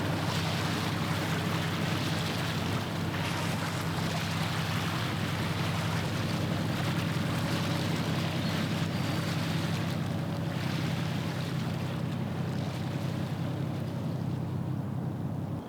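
A passing ship's engine droning as a steady low hum, over a haze of wind and water wash.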